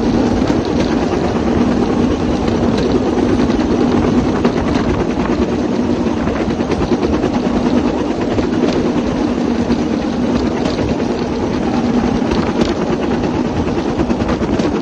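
Small lawn-mower-type engine of a bamboo train running steadily under load as the platform travels down the track, with a constant drone and scattered clicks and rattles.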